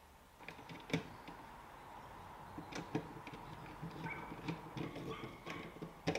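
Small plastic parts of a car's third brake light being handled, with a scatter of sharp clicks and taps over light rustling. The loudest click comes about a second in, another around three seconds, and a last one right at the end.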